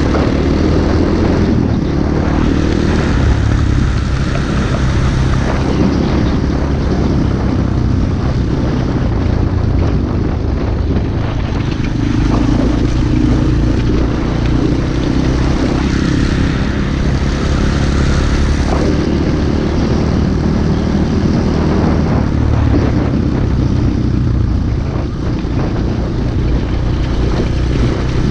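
Single-cylinder pit bike engine running steadily under way while riding, its note easing and swelling a little, with rushing noise over it.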